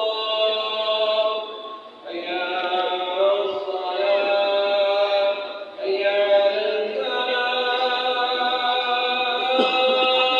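A voice chanting melodic Arabic recitation, in the style of Quran reading practice, in long drawn-out phrases. It pauses briefly about two seconds in and again near six seconds.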